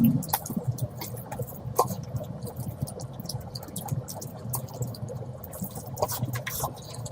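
Close-up eating sounds of curry being eaten: wet chewing with many small smacking clicks, a thump right at the start and a sharper one about two seconds in, over a steady low hum.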